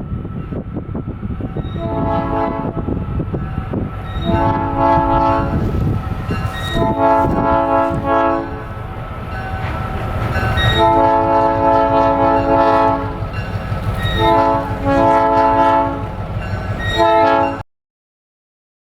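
A locomotive air horn, the old cast Nathan P3 on an EMD SW1200 switcher, blowing a series of chord blasts for a grade crossing, some long and some short, over the rumble of the diesel and the rolling train. The sound cuts off abruptly shortly before the end, where the camera died.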